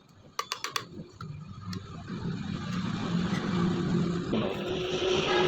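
A few sharp clicks, then a steady machine hum that grows louder over several seconds.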